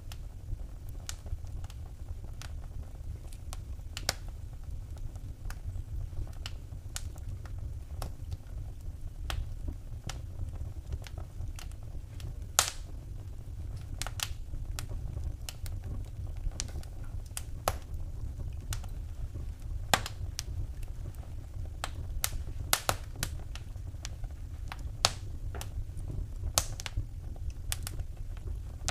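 Wood fire burning in a fireplace, crackling with irregular sharp pops and snaps over a steady low rumble of the flames; a few louder pops stand out.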